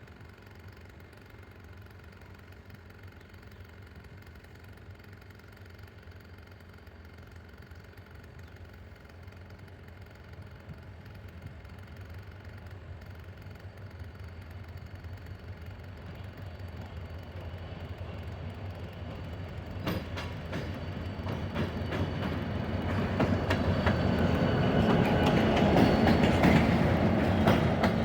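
Approaching diesel locomotive HR-TŽVG 2044-024 hauling an intermodal freight train: a low engine rumble that grows steadily louder, joined about two-thirds of the way in by wheels clacking over rail joints, loudest near the end.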